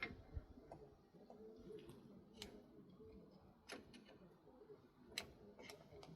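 Faint, scattered clicks and light knocks, about five of them at uneven intervals, over a low background.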